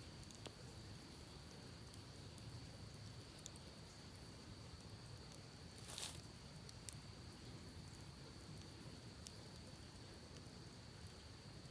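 Faint wood campfire crackling, with scattered small snaps and one louder pop about halfway through. A steady high-pitched hum and a low, even rush of creek water run underneath.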